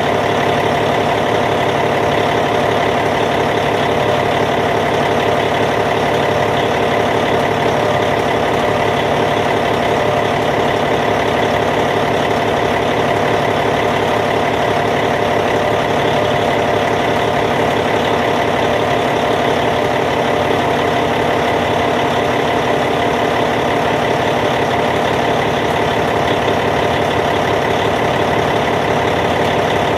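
Caterpillar C15 inline-six diesel engine in a D8T bulldozer idling at a steady, unchanging speed.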